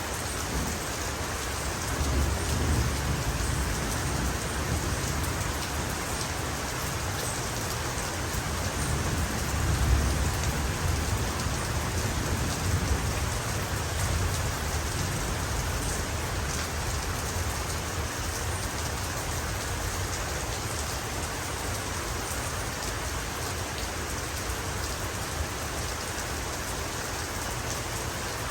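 Heavy rain falling steadily, with low thunder rumbling about two seconds in and again more strongly around ten seconds.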